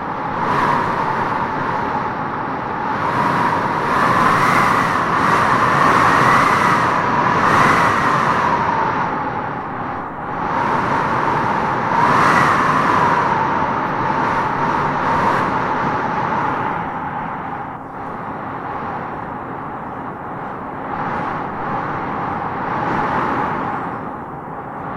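Wind howling as it gusts through trees: a whistling howl that swells and climbs in pitch with each gust, loudest in the first third and again about halfway, over a steady rushing noise.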